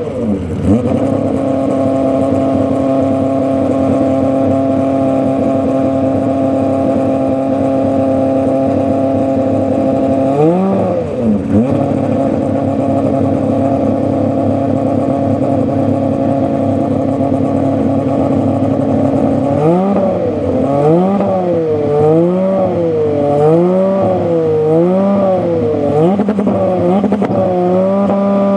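Aston Martin Vulcan's 7.0-litre V12 running at a steady idle, with one quick blip of the throttle about ten seconds in. From about twenty seconds it is revved in a run of short, even blips about once a second, then settles back to a steady idle near the end.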